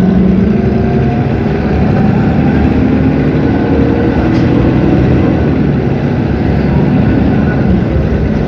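Cummins ISB 6.7 six-cylinder turbodiesel of an Agrale MT17 city bus running steadily, its note rising gently about two seconds in.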